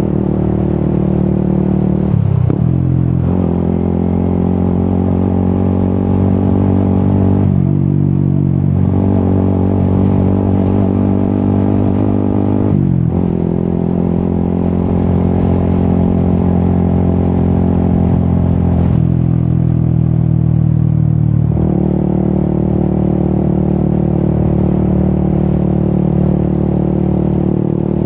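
Yamaha XSR 155's single-cylinder engine running through an Akrapovic exhaust while riding. It holds a steady note that breaks and settles at a new pitch several times, as with gear shifts and throttle changes.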